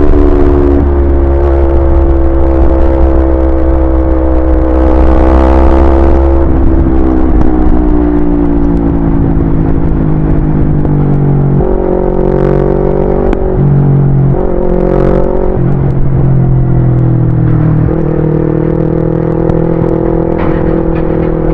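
Yamaha YZF-R25's 250 cc parallel-twin engine running under way. Its note rises a little and eases off, then shifts up and down a few times about halfway through as the throttle and gears change.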